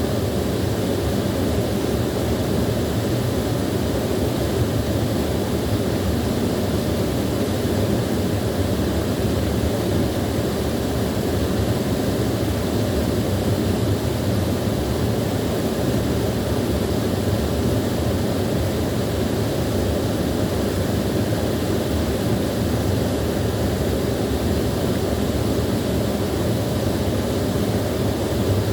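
Small waterfall: water pouring and splashing in a steady, unbroken rush, heavy in the low end.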